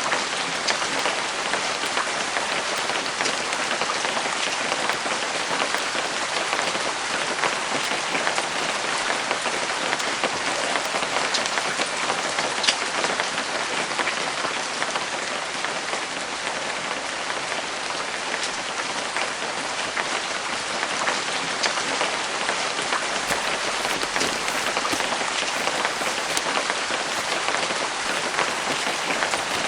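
Steady rain falling, an even hiss of many drops with the odd sharper single drop standing out.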